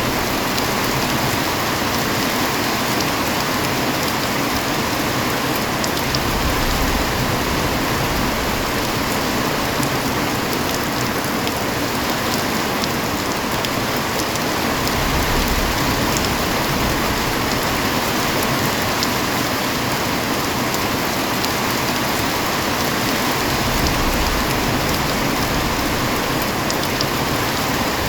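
Heavy rain falling steadily, a dense even patter, with a few soft low rumbles.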